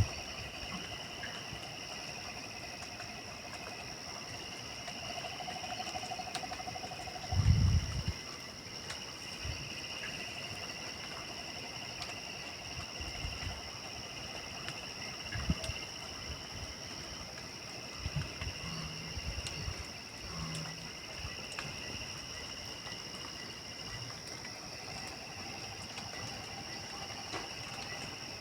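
Night chorus of insects and frogs: steady high-pitched trilling with lower calls that stop and start. A loud low thump comes about seven seconds in, with scattered faint clicks throughout.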